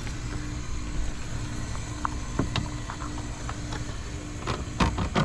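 Plastic taillight assembly being pushed and knocked against the car body as its tabs are worked into place without snapping in: scattered light clicks and knocks, with a cluster of louder knocks near the end, over a steady low hum.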